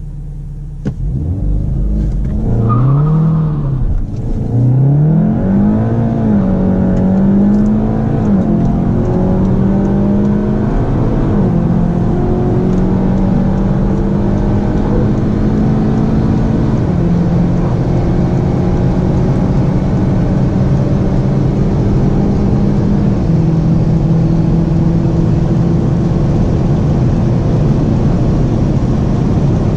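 SEAT Leon's engine heard from inside the cabin, launching hard about a second in and accelerating flat out. It shifts up through the gears, the engine note rising and dropping back at each upshift, with the shifts coming further apart as speed climbs past 200 km/h and wind and tyre noise build.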